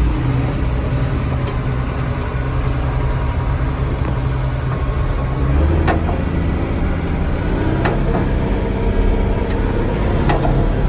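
Military truck's diesel engine running under way, its note changing about halfway through, with a few sharp clicks or knocks.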